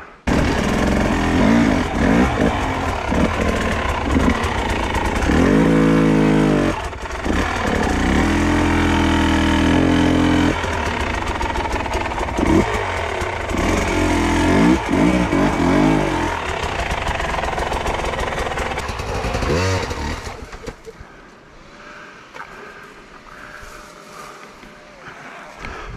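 Enduro motorcycle engine catching suddenly just after the start, then revving hard in repeated bursts, its pitch rising and falling as it is worked under load up loose boulders. About twenty seconds in the engine sound falls away, leaving a much quieter background.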